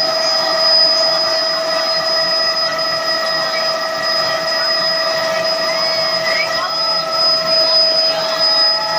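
Helicopter running steadily in flight, a constant whine of several high tones over a rushing noise.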